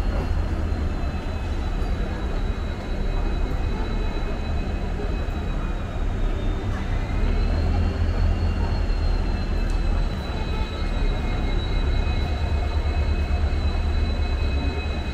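Vande Bharat Express electric train pulling away from the platform: a steady low rumble with a thin high whine that dips and rises again about halfway through.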